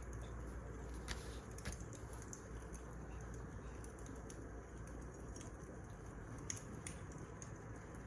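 Wood fire crackling: a steady low hiss with scattered small pops and snaps, a few sharper ones about a second in and again near the end.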